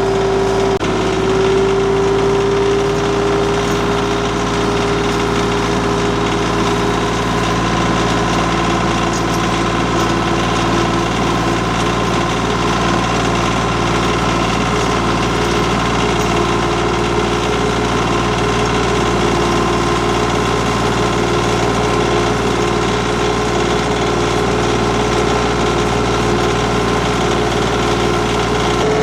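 Compact tractor engine running steadily under hydraulic grapple work, its pitch stepping up slightly about a second in.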